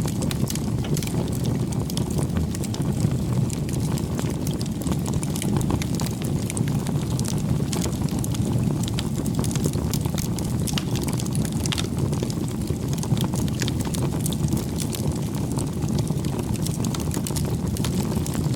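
Wood bonfire burning steadily: a continuous low rush of flames with many small crackles and pops from the burning wood.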